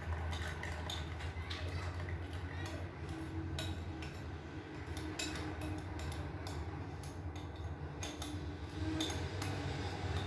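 A metal spoon clinking repeatedly against a glass as chocolate coffee mixture is spooned into it, in a quick irregular run of light taps.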